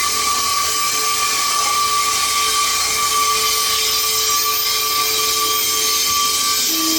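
A locomotive standing with its equipment running: a loud, steady hiss with a constant high whine.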